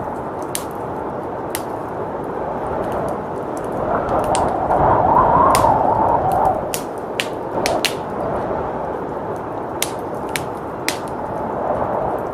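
Wood fire crackling with scattered sharp pops over a steady whooshing blizzard wind, which swells into a louder gust about four to six seconds in.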